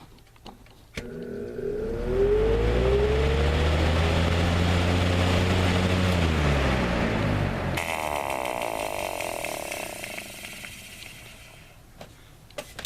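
Lasko 3733 box fan started on high: a click, then the motor hum rises in pitch as the blades spin up and settles into a steady hum with rushing air. About eight seconds in the sound changes abruptly, and the hum falls in pitch and fades as the fan winds down.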